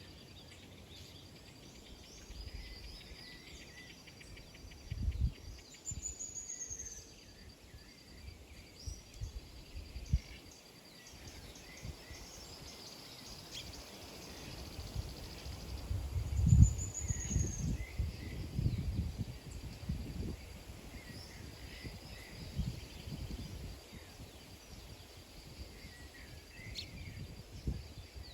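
Small birds chirping on and off, with a couple of quick trills, over a steady high tone. Low thumps and rumbles come at times, loudest about two-thirds of the way through.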